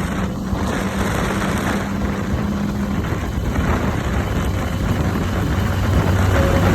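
BMW S1000RR inline-four with an Akrapovič exhaust running at a steady pace, its engine note under heavy wind and road rush. The note drops away about three seconds in, and the sound grows louder near the end.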